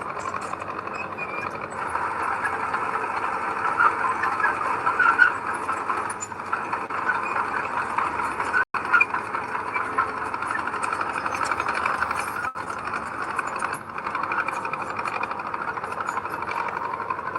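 Heavy diesel earthmoving machinery running steadily under load, with the sound cutting out for an instant about halfway through.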